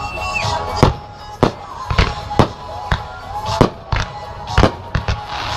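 Fireworks going off in quick succession, about a dozen sharp bangs at roughly two a second, over music.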